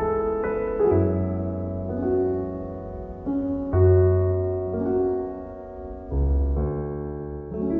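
Slow, calm background piano music: held chords over deep bass notes that change every two or three seconds.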